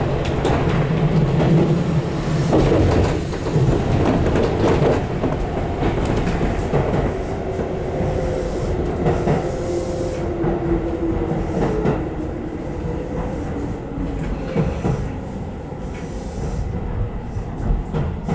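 Electric commuter train running, heard from inside the car as it slows into a station: steady rail and running noise with occasional knocks, and a tone that slowly falls in pitch midway as it decelerates.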